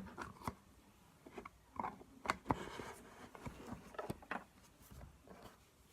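Slime being worked by hand: irregular small clicks and soft squishes.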